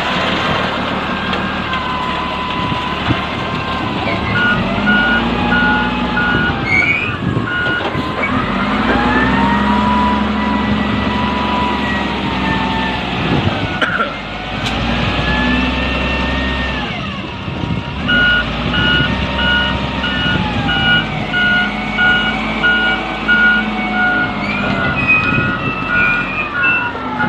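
Small pick-up dump truck's engine running, its revs rising and falling as it manoeuvres. A reversing beeper sounds a steady run of beeps from about four seconds in for several seconds, and again from about eighteen seconds in almost to the end, the sign of the truck backing up.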